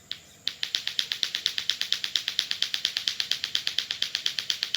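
A fast, very even run of sharp clicks, about twelve a second, that starts about half a second in after a few slower clicks.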